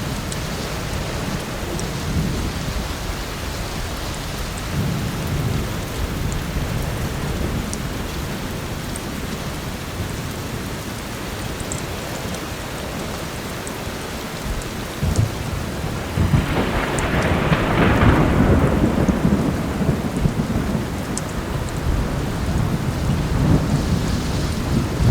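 Heavy rain with low rolling thunder, swelling into a louder thunder roll about two-thirds of the way through. Faint scattered crackles of a fireplace sit on top.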